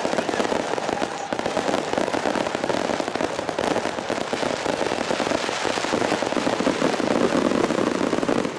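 Fireworks barrage: a dense, continuous run of rapid pops and crackles with no pauses between shots.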